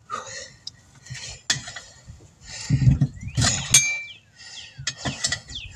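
Steel tire irons clinking and scraping against a steel wheel rim while a tire bead is levered on by hand, with short falling squeaks from the rubber bead sliding over the rim.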